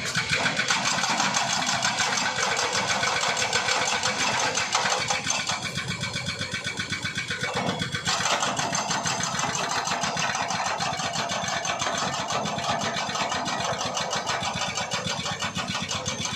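A small engine running steadily with a rapid, even chatter.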